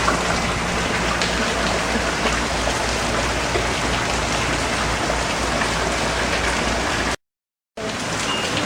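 Steady rain falling, an even hiss of drops without a break except for a brief total cutout of the sound about seven seconds in.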